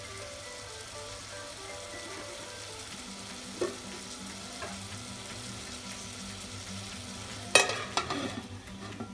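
Diced potatoes, onion and green chillies sizzling steadily in oil in an aluminium pot, left covered to steam until the potatoes are cooked through. About seven and a half seconds in, a flat aluminium plate lid clanks down onto the pot, the loudest sound here.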